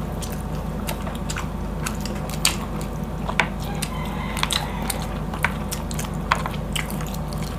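Close-up eating sounds: biting and chewing boiled pork hock meat and skin, with scattered short wet mouth clicks over a steady low hum.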